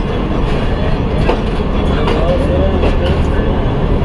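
Passenger train rolling slowly into a station, heard from an open coach door: a steady low rumble with repeated sharp clicks as the wheels cross rail joints.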